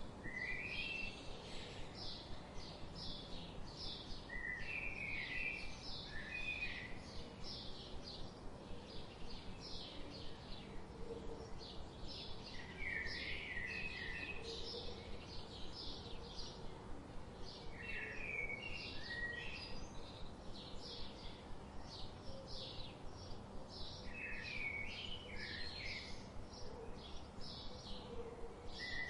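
Songbirds calling: a continuous run of short high chirps, with a brief warbled song phrase repeating about every six seconds over a steady low background hum.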